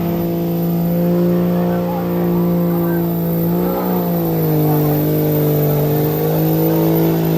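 Truck engine held at high revs in one steady, loud note during a burnout, dipping briefly about four seconds in and then holding again.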